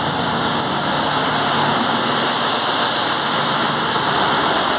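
Steady, loud noise of a ship's engine room: running diesel machinery and ventilation blending into one even hiss and rumble, with no single machine standing out.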